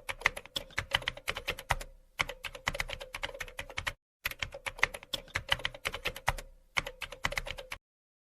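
Computer keyboard typing: quick runs of sharp key clicks, several a second, broken by three short pauses over a faint steady hum, cutting off suddenly near the end.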